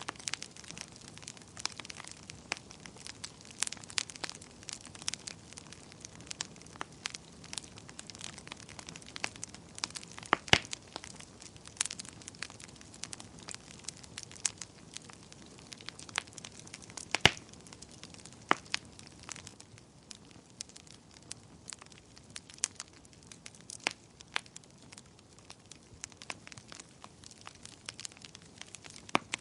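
Campfire crackling: a faint steady hiss with frequent irregular sharp pops and snaps, two louder pops about ten and seventeen seconds in.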